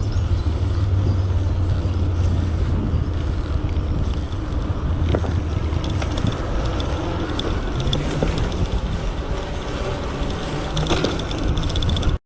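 Steady low rumble of road and traffic noise from a moving bike ride, with motor vehicles passing. The audio drops out briefly at the very end.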